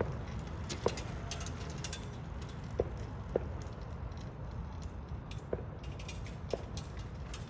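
2012 Honda CR-V engine idling with a steady low rumble, with light irregular ticks over it. It is running on a newly replaced crankshaft position sensor, and the idle is said to be steady with less vibration.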